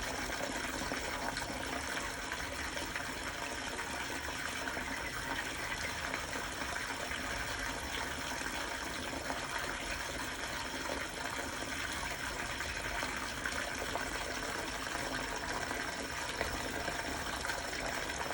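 Steady rush of running water, like a small fountain or trickling water feature, unchanging throughout.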